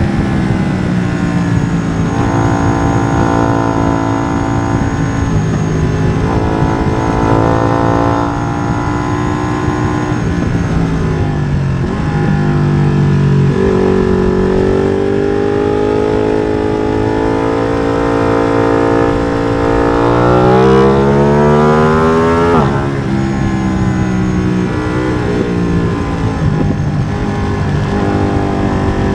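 Ducati Streetfighter V2's 955 cc Superquadro twin, remapped and breathing through an open MIVV exhaust with the dB-killer removed, pulling hard through the gears with stepped upshifts and long climbing revs. Twice the revs fall away sharply as the throttle is shut for braking and downshifts.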